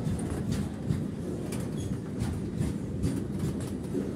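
Container freight train wagons rolling past: a steady low rumble of wheels on rail, with sharp clicks two or three times a second.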